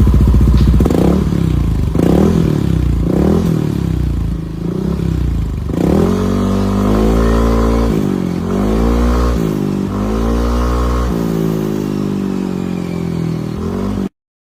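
Yamaha Aerox Alpha scooter's single-cylinder engine running through a Krace aftermarket racing exhaust, blipped in short revs about once a second, then revved higher and held with the pitch dipping and climbing again. The sound cuts off suddenly near the end.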